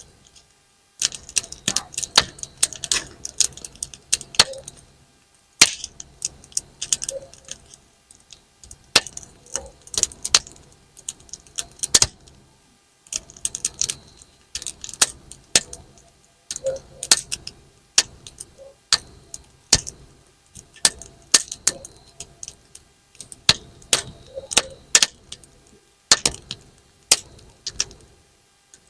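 Campfire wood burning, crackling and popping in sharp, irregular snaps that come in clusters with short lulls, popping like bang snaps thrown on the ground.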